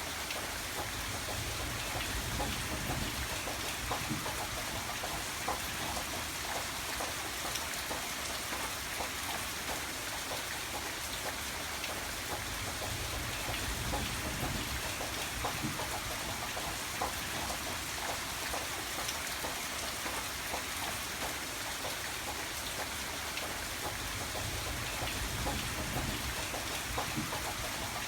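Steady rain falling, with many separate drops ticking on a surface. A low rumble swells and fades a few times.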